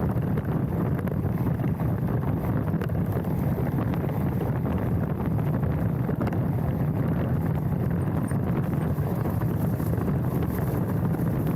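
Mountain bike rolling down a dirt trail, heard from a handlebar-mounted camera: a steady rush of wind on the microphone and tyre rumble, with many small clicks and rattles from the bike.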